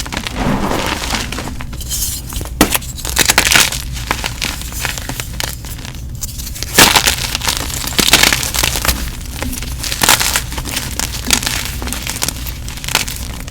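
Gym chalk crushed and crumbled, giving a run of irregular crunches and crackles with several louder crunches about a third and a half of the way through, over a steady low hum.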